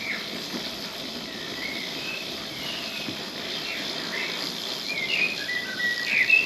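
Small birds chirping and singing in short, repeated high calls, busiest and loudest near the end, over a steady outdoor hiss.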